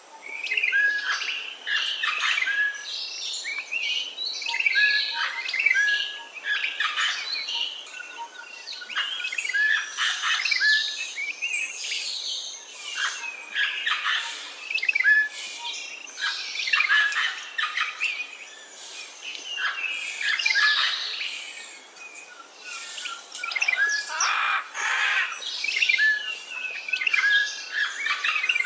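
A chorus of several wild birds chirping and calling, with many short overlapping calls and a short whistled note that keeps recurring.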